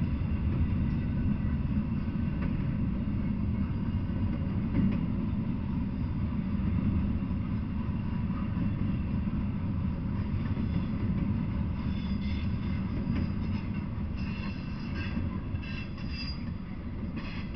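Double-stack intermodal freight train rolling past on the rails: a steady low rumble of the well cars that fades as the end of the train goes by, with short high squeals from about twelve seconds in.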